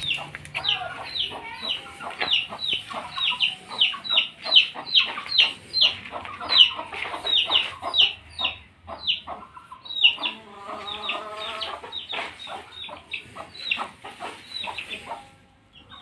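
Chickens calling: a dense run of short, high, falling notes, several a second, mixed with clucks. About ten seconds in, a longer, lower call sounds for a second or two.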